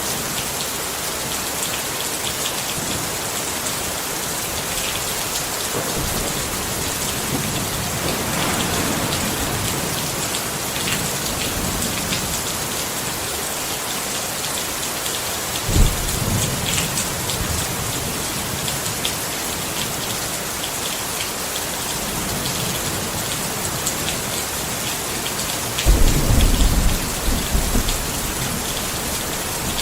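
Steady rain pattering on a tent, with thunder rumbling low. One roll starts sharply about halfway through, and the loudest rumble comes near the end.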